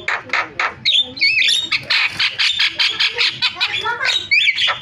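Javan myna singing a busy, varied song: a rapid, unbroken run of harsh squawks, clicks and short whistled glides.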